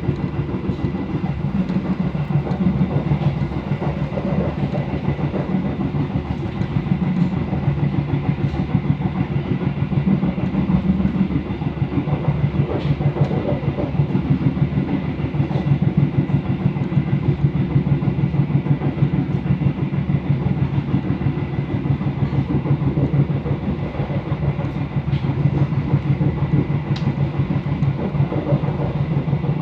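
Passenger train running along the line, heard from aboard: a steady low rumble with rapid wheel-on-rail clatter and a faint steady high whine.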